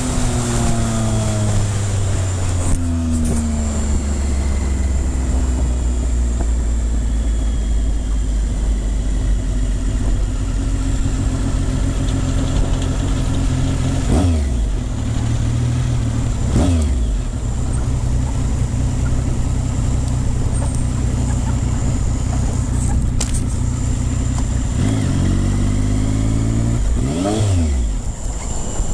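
Triumph Speed Triple 955i's three-cylinder engine running loudly and steadily, its revs briefly dropping and rising again several times. The owner notes a weird, abnormal noise from the bike around this point.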